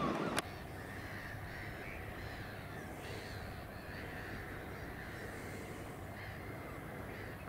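Several short bird calls at intervals over a steady outdoor hiss, with a sharp click near the start.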